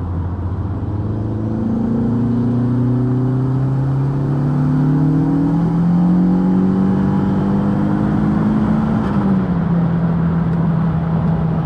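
Turbocharged 1.8-litre 20-valve four-cylinder engine in a Mk2 Golf on a hard acceleration pull at about 1.45 bar of boost, the revs climbing steadily for about eight seconds, then dropping back a little about nine seconds in and holding there.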